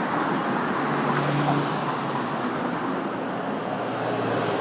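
Road traffic passing on a city street: a steady rush of tyres and engines, with an engine hum swelling about a second in.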